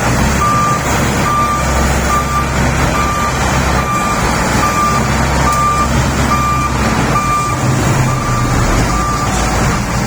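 Shantui SD32 crawler bulldozer's diesel engine running under a back-up alarm that beeps steadily, a little faster than once a second: the dozer is in reverse.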